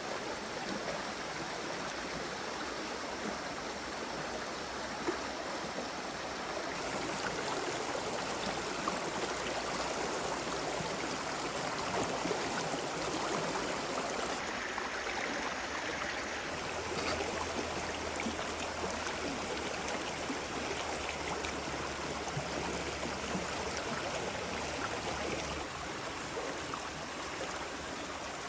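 Water in a stream flowing steadily, an even rushing without breaks.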